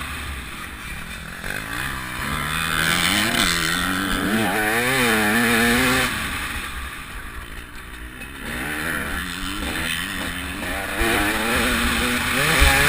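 TM 300 two-stroke motocross bike's single-cylinder engine revving up and down under the throttle, its pitch climbing for a few seconds and dropping off about six seconds in, then rising again. Wind rushes over the microphone throughout.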